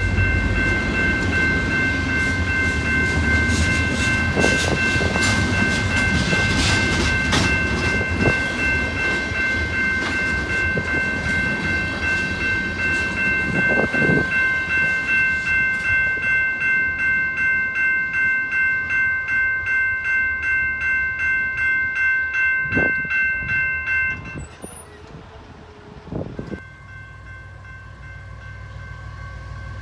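A freight train switching on a spur line: rolling railcar noise with occasional sharp clanks. Over it a level-crossing warning bell keeps ringing, with a steady pulse of ringing tones that stops abruptly about 24 s in.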